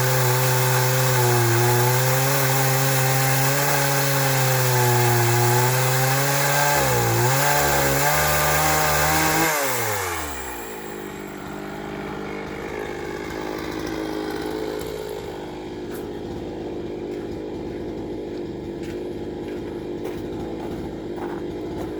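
Two-stroke chainsaw running at high revs through firewood, its pitch dipping under load about seven seconds in. At about nine and a half seconds the throttle is released and the engine note falls away quickly, leaving a quieter steady engine hum.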